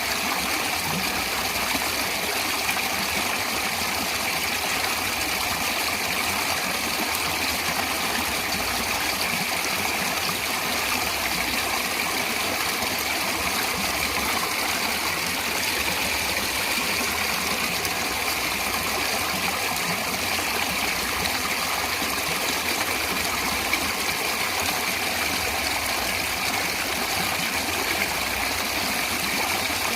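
Natural running water flowing steadily, an even, unbroken rush with no pauses.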